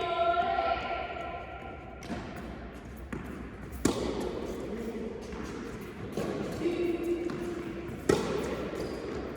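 Tennis ball struck by racquets during a rally: two sharp, loud hits about four seconds apart, with fainter knocks of the ball bouncing in between.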